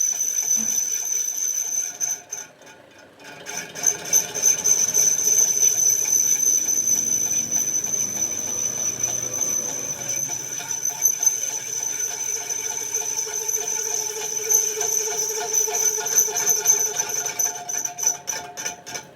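A power tool working metal on a truck rim, running with a steady high-pitched squeal. It breaks off for about a second roughly two seconds in, then carries on.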